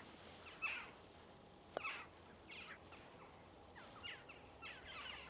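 Faint jackdaws calling: a string of short, sharp calls, roughly one a second.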